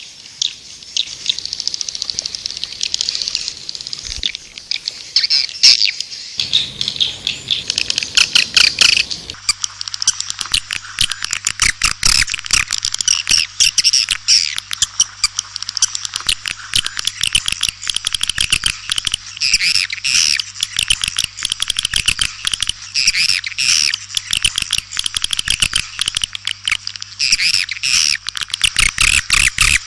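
A flock of swiftlets chattering in a dense, rapid stream of high twittering chirps, the kind of recording played as a lure call for swiftlets. A steady low hum joins from about nine seconds in.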